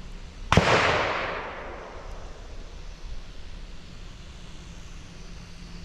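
A single shotgun blast about half a second in; its echo rolls off over about a second and a half.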